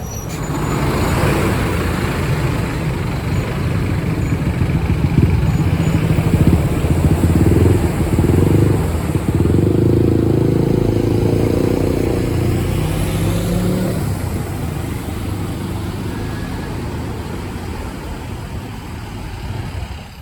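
Scania K270UB city bus engine pulling away, the pitch rising as it accelerates, loudest through the middle, then dying down over the last few seconds as it moves off.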